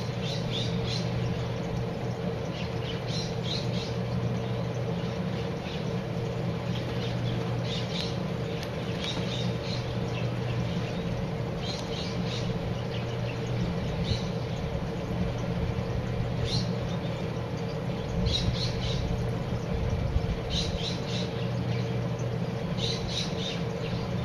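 Birds calling in short, high chips that come in small clusters every one to three seconds, over a steady low hum.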